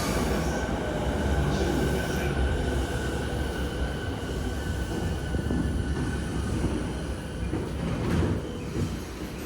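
Commuter train running past the platform: a low rumble with a steady high-pitched whine or squeal from the wheels and motors, slowly fading as it draws away.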